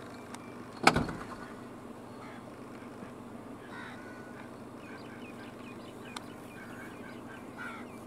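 Faint short bird calls, repeated several times in the second half, over a steady low hum, with one sharp knock about a second in.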